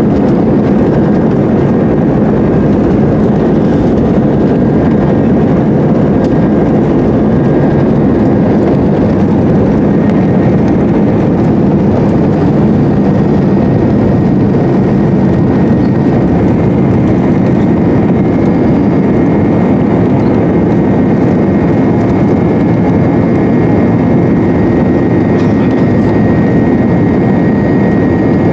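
Cabin noise of an Airbus A320-232 with IAE V2500 engines, heard from a window seat: a loud, steady roar of engines and airflow, with a faint high whine that gets a little stronger and higher in the second half.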